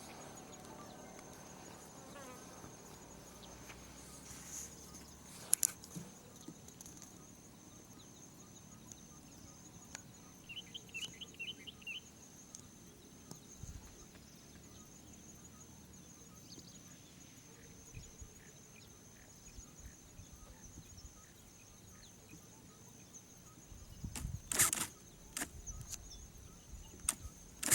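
Faint open-air ambience with a steady high insect whine throughout. A brief twittering bird trill comes about eleven seconds in. There is a sharp click early on and a few louder knocks or rustles near the end.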